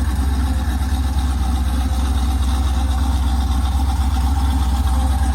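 Chevrolet small-block V8 (355 cubic inch, Sniper fuel injection) in a 1971 Nova running steadily with a strong exhaust note, with a deep, fast, even pulse and no revving.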